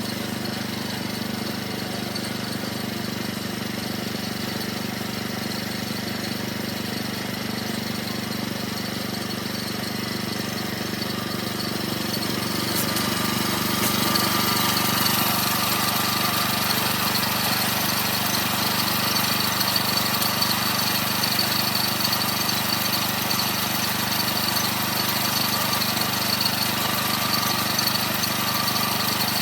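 Small engine on a homemade sawmill running steadily. About halfway through it grows louder and a higher, hissing whine joins in, as the saw works through a big log.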